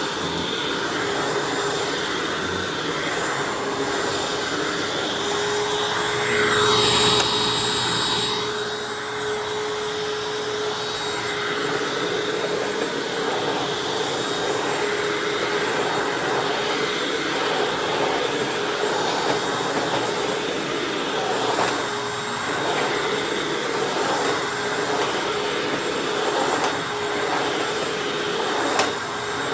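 Upright vacuum cleaner running steadily with a constant motor whine, pushed over the floor. About seven seconds in it gives a louder, brief rushing surge that falls in pitch.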